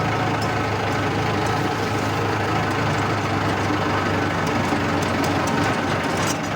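Mahindra tractor's diesel engine running steadily with a constant low hum.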